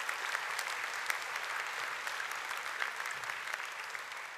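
Audience applauding steadily in a hall, dying away near the end.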